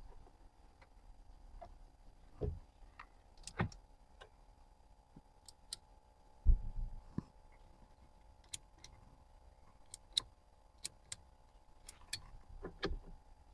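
Faint, irregular clicks and light knocks inside a car, with a dull thump about six and a half seconds in, over a faint steady hum. The ticking is the kind of sound a hazard-flasher relay makes, and it is what is being listened for to locate a relay that bad contacts have made unreliable.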